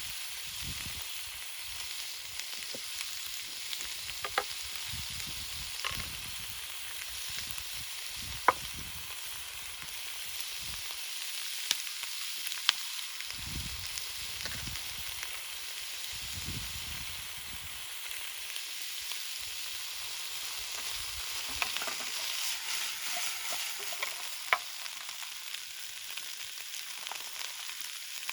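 Food sizzling and frying in a pan over a wood campfire, a steady hiss broken by a few sharp pops and crackles. This is the frying stage of making sinigang, before water is added to simmer it.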